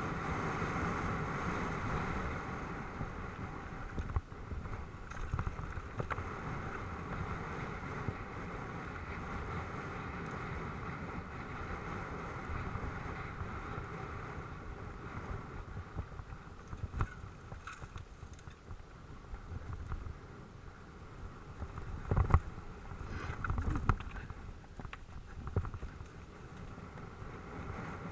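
Mountain bike (a Specialized Enduro) rolling over a dirt motocross track: a steady rush of wind and tyre noise, with several sharp knocks from the bike hitting bumps. The loudest knock comes about 22 seconds in.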